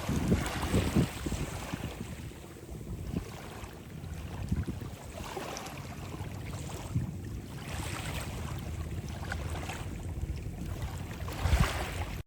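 Sea waves washing in, with wind rumbling on the microphone; the sound swells every few seconds.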